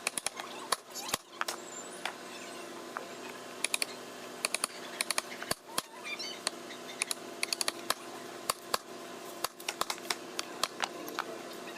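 Irregular sharp clicks and light taps, often in quick pairs or clusters, over a faint steady hum.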